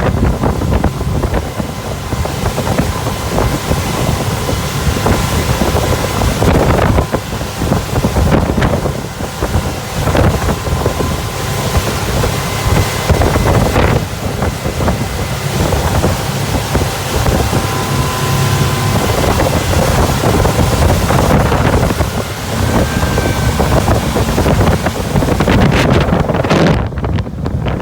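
Boat underway with its engine running steadily, heavy wind buffeting the microphone and water rushing past the hull.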